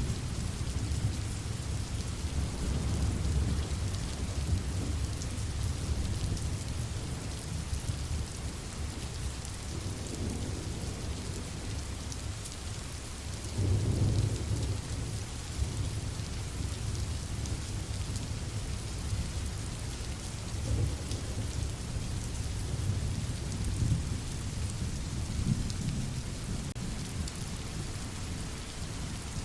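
Steady rain with rolling thunder: a low rumble swells and fades several times under the hiss of the rain, loudest about a third of the way through.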